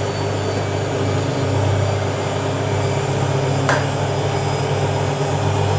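Washing machine drum spinning at speed, a steady hum and whir, with one sharp click a little over halfway through.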